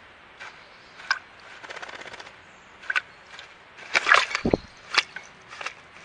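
A small bird splashing in a bath: short, sharp splashes at irregular intervals, with a flurry of rapid splashing about four seconds in, along with a brief low thud.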